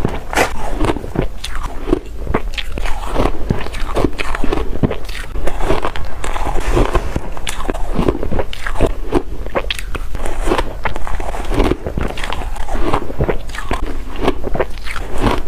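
Close-up crunching and chewing of shaved ice, a dense, irregular run of sharp crunches as mouthful after mouthful is bitten and chewed.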